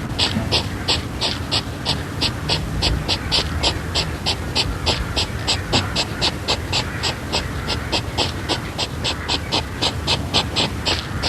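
Dog panting steadily and fast, about three and a half quick breaths a second.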